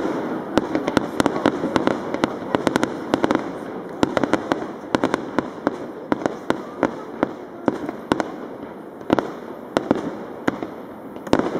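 Fireworks display going off: a rapid, irregular string of sharp bangs and cracks, several each second, over a continuous crackling din.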